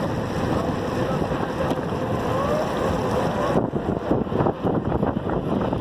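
Wind buffeting the microphone of a camera on a moving road bike, a loud steady rush. A little over halfway through, the hiss suddenly thins out and the buffeting turns choppy and gusty.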